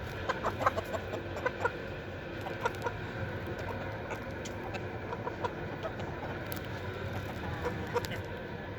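Aseel chickens clucking, with short calls coming thick in the first two seconds and then more scattered.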